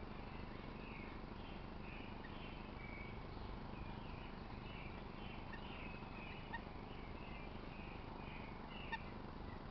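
A long series of short, high chirps, a few each second, over a steady outdoor background hiss, with two soft clicks in the second half.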